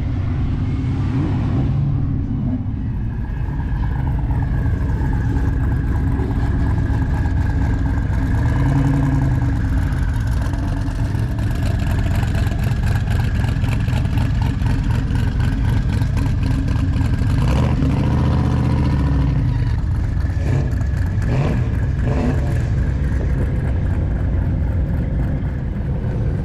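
Car engines running steadily, with a couple of revs that swell and fall away, about a third of the way in and again about two-thirds in.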